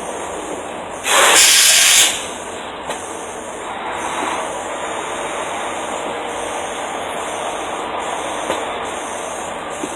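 Steady rumble and noise of heavy vehicles, broken about a second in by a loud hiss that lasts about a second.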